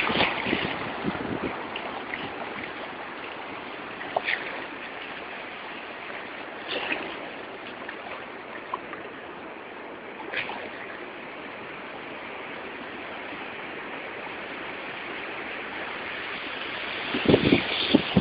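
Steady wash of sea water, broken by a few short splashes, with wind gusting on the microphone near the end.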